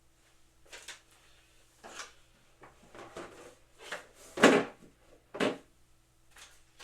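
Knocks and clunks of equipment parts being handled and set down during assembly, a few light ones and then two louder ones about four and a half and five and a half seconds in.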